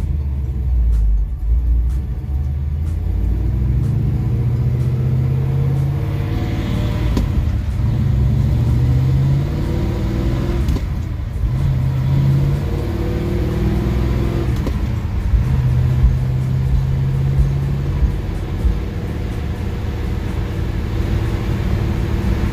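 The high-performance Merlin V8 of a 1969 Chevy Nova, with headers and dual exhaust, pulls away under load. Its pitch climbs and drops back several times as the four-speed manual is shifted up through the gears.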